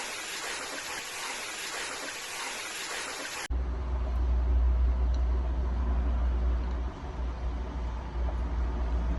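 Steady hiss of heavy rain or rushing floodwater. About three and a half seconds in it cuts abruptly to a loud, steady low rumble with fainter water noise over it.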